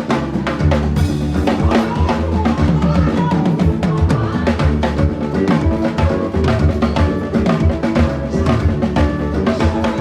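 Drums played fast and continuously, with dense bass drum, snare and rim hits, over a held pitched musical backing.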